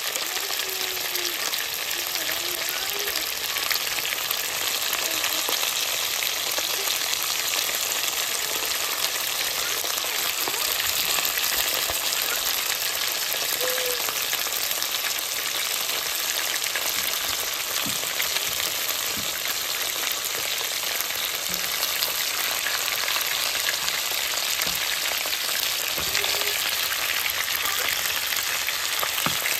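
Meatballs frying in shallow oil in a nonstick pan, with a steady sizzle and a fine crackle. In the second half, a few light knocks and scrapes come from a wooden spatula turning them.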